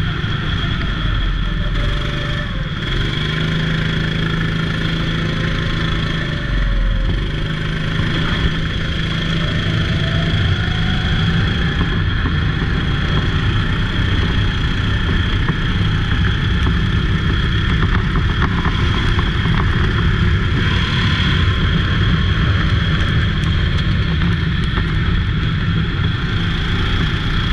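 Go-kart engine running steadily, with a few gentle rises and falls in pitch in the first half.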